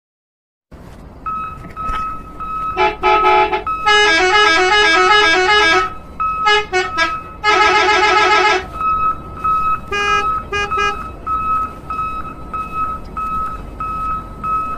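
Electronic sound chip of a battery-powered toy vehicle: a beeping tone repeating about twice a second, with short bursts of synthesized horn-like tune between about three and eleven seconds in.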